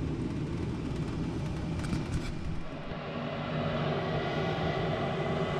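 S9V2 gas furnace running steadily, its motors giving a constant rumble. A few clicks come about two seconds in, and from about three seconds in a steady motor hum with tones settles over the rumble as the furnace cycles off after the call for heat is removed.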